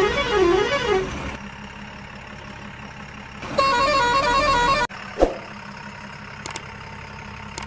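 Electronic toy-vehicle sound effects over a steady low rumble: a warbling siren-like tone for about the first second, then about three and a half seconds in, a short jingle of stepped horn notes.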